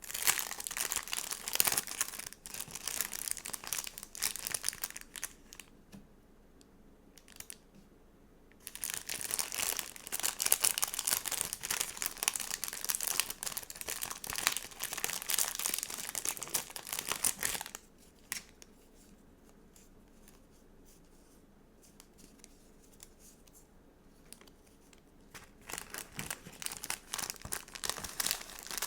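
Stickers and their sticker sheets or plastic packaging being handled close up: crinkling and peeling in three busy stretches, with quieter gaps of scattered soft clicks in between.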